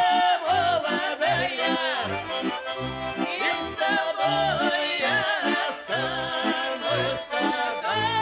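Accordion playing a lively folk tune: a melody over steadily pulsing bass notes and chords.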